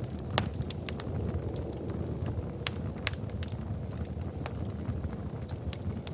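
Wood fire crackling in a fireplace: irregular sharp pops and snaps over a steady low rumble, with one louder pop about half a second in.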